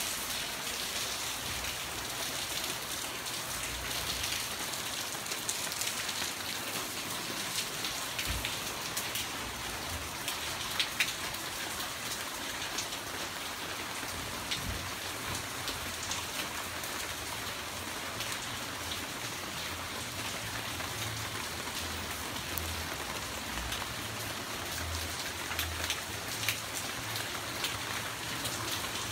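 Steady rain falling on stone paving and palm foliage, with scattered louder drips close by.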